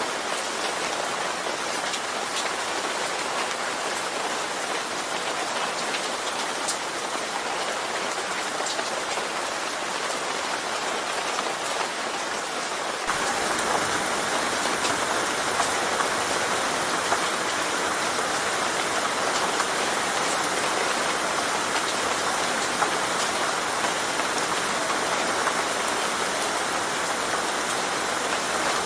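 Steady rain falling, an even hiss with scattered individual drop ticks. About halfway through it abruptly becomes slightly louder and brighter, then carries on steadily.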